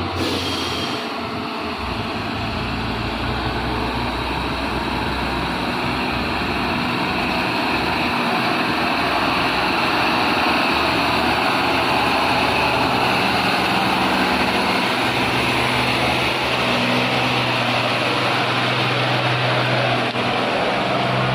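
A loaded coal truck's 220 PS diesel engine running steadily under load, growing gradually louder.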